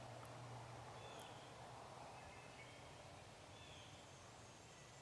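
Near silence in woodland, with a few faint, short songbird calls in the distance.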